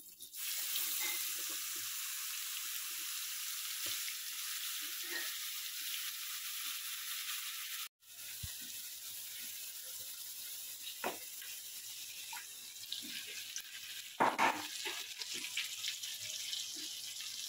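Ground spice paste sizzling loudly as it hits hot oil in a kadai, the hiss starting suddenly as the paste goes in. After a break about eight seconds in, the frying masala sizzles more softly, with a few knocks.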